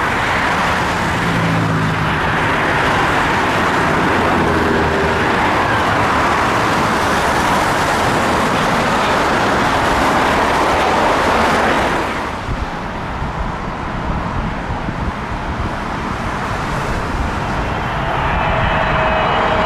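Loud, steady roar of jet airliner engines that eases off about twelve seconds in. Near the end, the high whine of another approaching airliner's engines starts to come in.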